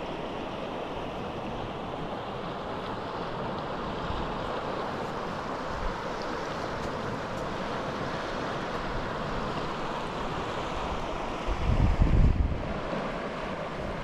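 Steady rush of a mountain river's flowing water. Just before the end, a loud low buffet of wind on the microphone lasts about a second.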